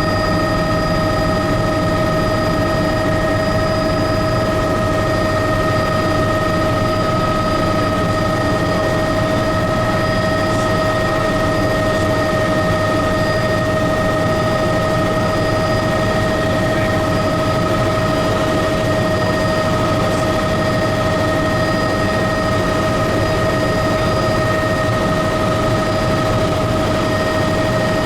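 Turbine helicopter in steady cruising flight: a constant high turbine whine over an even wash of engine and rotor noise.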